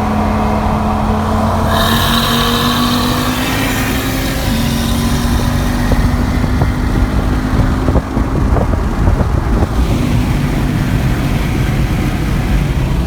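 Car engine pulling under load, its pitch rising slowly and steadily, over heavy low road rumble and wind noise.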